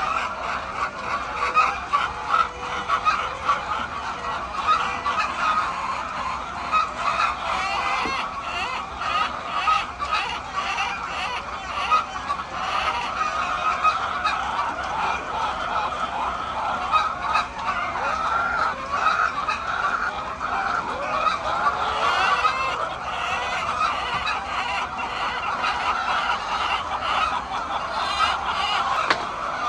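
A large flock of laying hens clucking and calling without a break, with many voices overlapping into a dense din.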